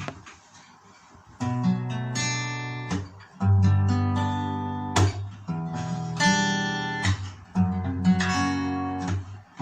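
Guitar playing the song's intro. Strummed chords begin about a second and a half in and change roughly once a second, each chord ringing on until the next.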